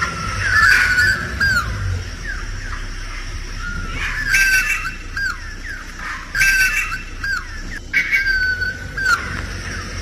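A bird calling in four bursts of whistled, squawking notes that slide up and down in pitch, each about a second long and a couple of seconds apart.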